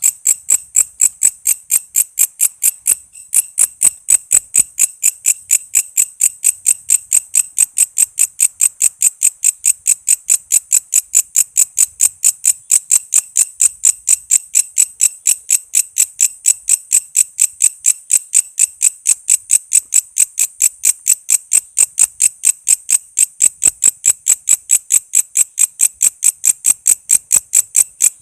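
Walang kece katydid calling in a steady, rapid run of short, even, high-pitched pulses, with a brief break about three seconds in.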